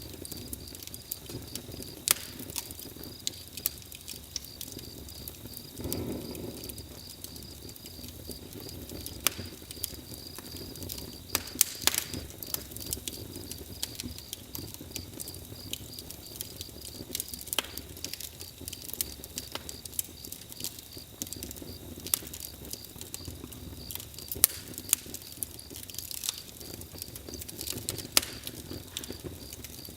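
Campfire crackling: irregular sharp pops and snaps over a steady low hiss of burning wood, with a brief louder swell about six seconds in.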